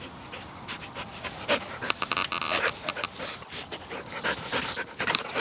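A dog panting up close, with irregular clicks and rustles that get louder after about a second.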